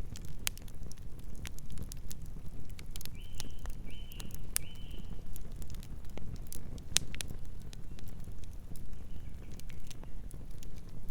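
Campfire crackling: irregular sharp pops and snaps over a low, steady rumble. Three short, high chirps come about three seconds in.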